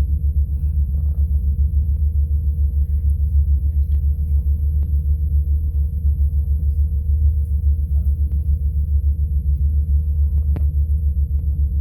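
A steady, loud low mechanical rumble with a fast, even throb, over a constant hum tone.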